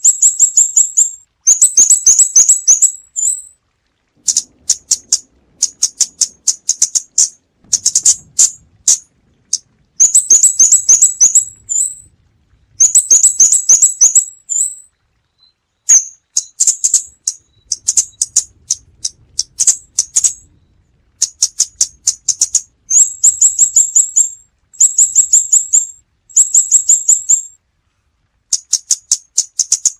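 Scarlet-backed flowerpecker calling: rapid runs of sharp, very high ticks, each run about a second long, repeated every couple of seconds with short gaps between.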